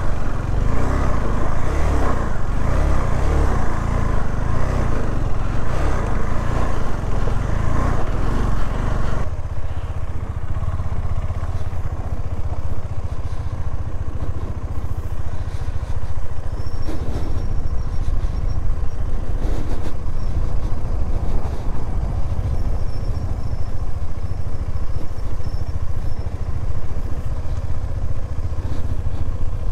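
KTM 390 Adventure single-cylinder motorcycle engine running while riding a dirt track, with heavy low wind rumble on the bike-mounted microphone. About nine seconds in, the sound changes abruptly and becomes mostly low rumble.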